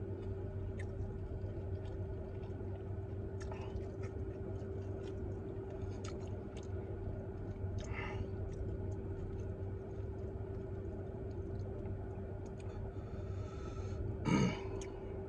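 A man chewing a fried chicken sandwich with small wet mouth clicks, over the steady hum of the car's air conditioning. Near the end he blows out one loud breath through pursed lips, cooling the spicy burn.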